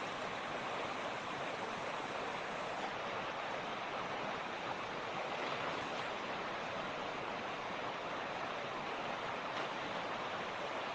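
Mountain creek running steadily, an even rushing of water with no single splashes standing out.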